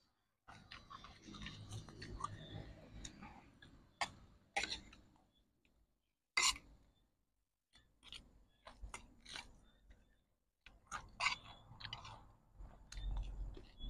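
A person chewing and crunching crispy deep-fried chafer beetles, in irregular stretches broken by short pauses. There are a few sharp, loud clicks, the loudest about six and a half seconds in.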